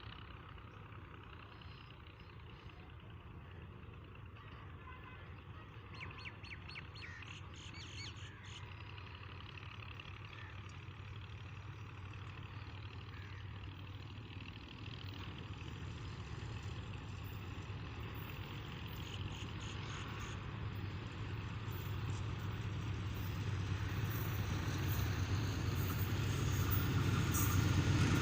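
Pakistan Railways diesel locomotive approaching at speed: a low rumble growing steadily louder, with birds chirping a few times along the way.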